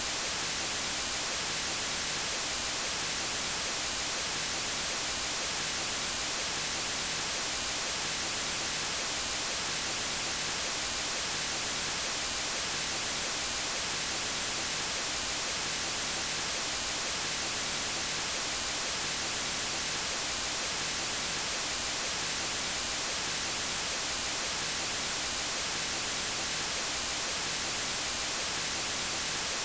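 White noise: a steady, even hiss with no variation in level.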